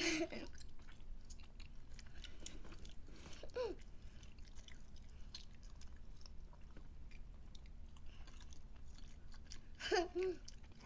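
People chewing and biting soft food, a hot dog and a fudgy brownie: close mouth sounds with many small wet clicks.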